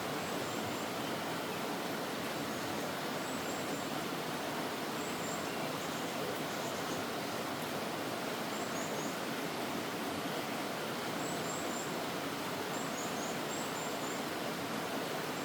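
Mountain valley stream running with a steady rush of water. Faint, short, high-pitched bird chirps come in small groups every second or two over it.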